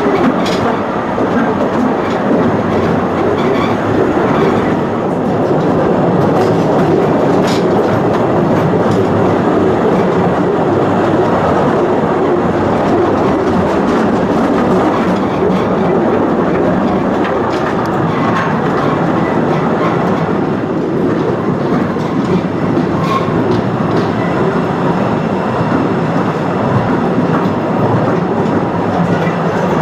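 Narrow-gauge cave tourist train running along its rails, heard from a seat in one of its open passenger cars: a steady loud rumble and rattle with occasional sharp clicks from the wheels and track.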